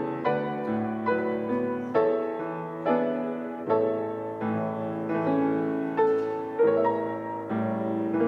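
Slow, gentle piano music: sustained chords struck roughly once a second, each fading before the next.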